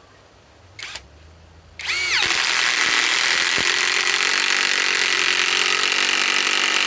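Bauer brushless compact impact wrench, powered by a Flex 24-volt battery, driving a long lag screw. A short trigger blip comes about a second in. Just before two seconds the motor spins up with a rising whine, then the wrench hammers steadily and loudly.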